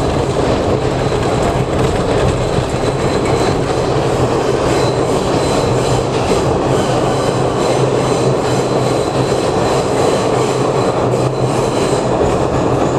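New York City subway train of R62A cars running through the tunnel, heard from inside the car: a steady, loud rumble of wheels on rail with faint clicks over the rail joints and a thin high tone above.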